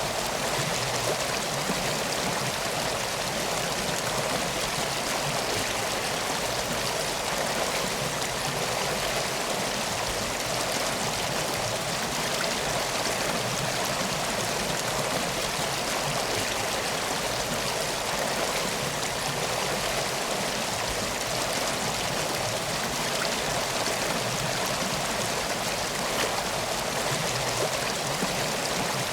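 Steady rushing of flowing river water, an even wash of sound with no breaks or distinct splashes.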